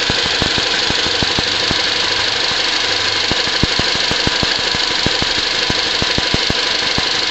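Car engine idling under the open hood: a steady hiss with a run of light ticks, several a second, and a faint steady tone.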